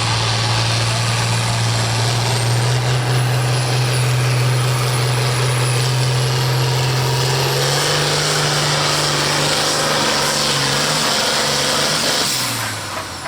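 Modified diesel farm tractor engine running hard at full throttle under load: a loud steady drone whose pitch steps up a little about two-thirds of the way through. Near the end the pitch drops and the sound falls away as the engine lets off.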